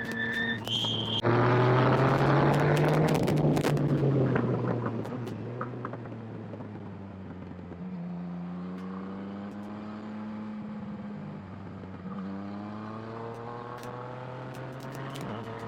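Motorcycle engine under hard acceleration: it revs up sharply about a second in and climbs, eases off, then pulls up through the revs twice more with a drop in pitch between each pull, as at a gear change.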